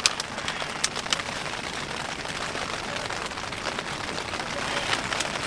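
Steady rain on the fabric of a tent, a dense even patter, with a few sharp clicks in the first second or so.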